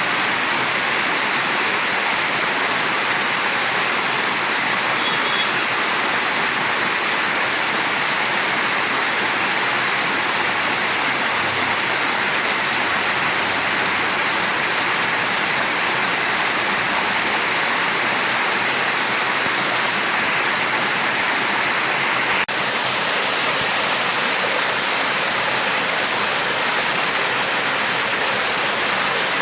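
Mountain stream rushing steadily over rocks: a continuous, even rush of water.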